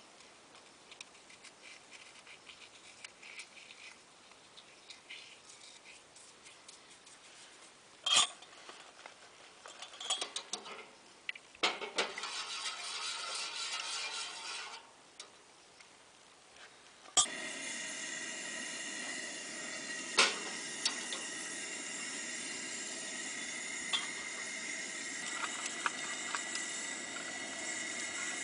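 Pots and utensils clinking and knocking as camp cooking gear is handled. About two-thirds of the way through, a sharp click, and a Coleman two-burner camp stove's burner starts hissing steadily, with a few more clinks over it.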